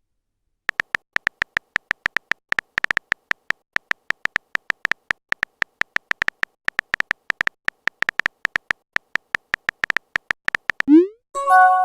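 A rapid, uneven run of short high beeps, the typing sound effect of a chat-message animation. Near the end comes a message-alert sound: a quick rising swoop and a short chime.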